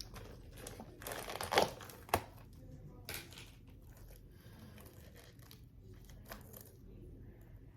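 Packaging of freeze-dried candy crinkling and rustling as it is handled, loudest about one and a half seconds in, with a sharp click just after two seconds and quieter rustles after.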